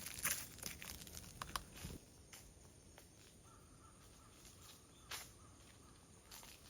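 Footsteps crunching on a forest path over the first two seconds, followed by quiet woodland ambience with a faint steady high tone and one more crunch about five seconds in.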